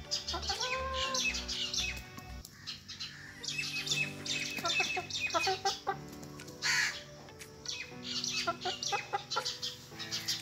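Background music, with repeated bursts of high, short chirping from chickens over it.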